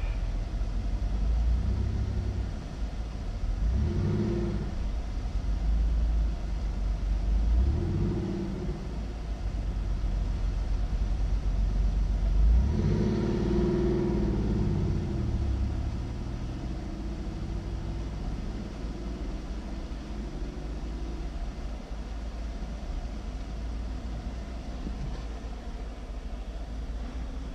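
Car engine idling with several brief revs, the longest about halfway through, then settling back to a steady idle, heard from inside a stationary car's cabin.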